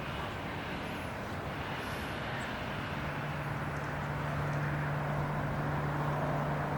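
Steady outdoor background noise with a low, even engine-like hum that fades at first and comes back about three seconds in.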